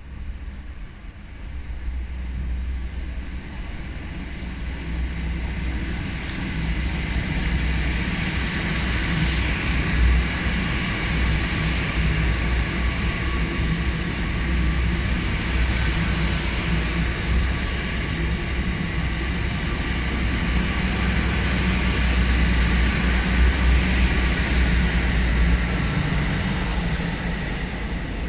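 LNER Class 800 Azuma bi-mode train passing through a station on its underfloor diesel engines: a steady, loud rumble of engines and wheels on rail. It builds over the first few seconds as the train draws level, holds while the carriages go by, and eases slightly near the end as it pulls away.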